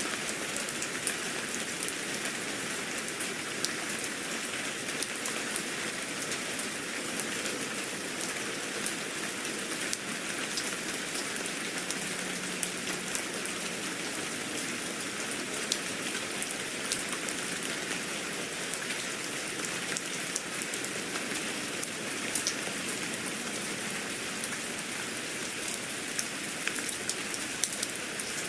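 Steady rain falling on a surface, with many small individual drop ticks scattered through it.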